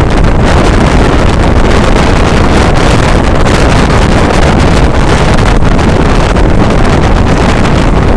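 Steady, loud rush of wind buffeting the microphone, over the low running rumble of a passenger train moving at speed.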